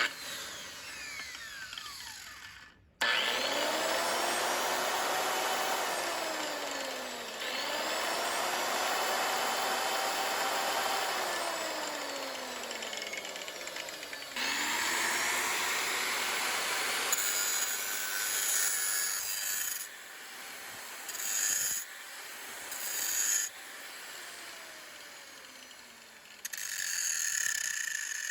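Restored Hitachi G18SH angle grinder switched on three times, its motor whine rising as it spins up, holding steady, then sliding down as it coasts to a stop. Later come several shorter, harsher bursts with more hiss.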